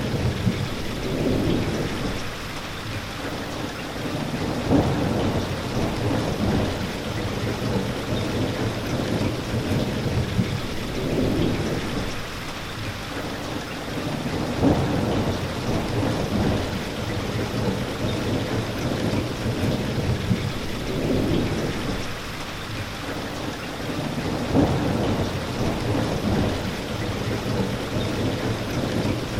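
Steady heavy rainfall hissing without a break, with low rumbles that swell and fade about every ten seconds.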